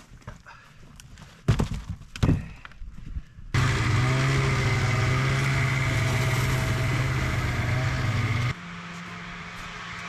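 A few heavy thuds, then a small engine running steadily and loudly for about five seconds, which drops abruptly to a quieter steady run with a different note near the end.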